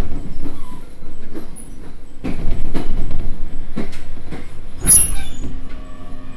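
Train running on the rails, wheels knocking irregularly over rail joints, with a sharp high squeal about five seconds in. A steady hum sets in near the end.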